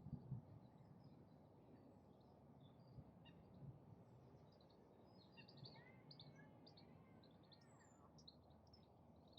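Faint outdoor ambience: many small birds chirping in short high notes, busier in the second half, over a low steady rumble.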